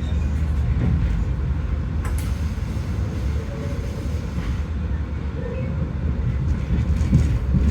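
Passenger train running along the track, heard as a steady low rumble with a few faint clicks and knocks, and one sharper click about two seconds in.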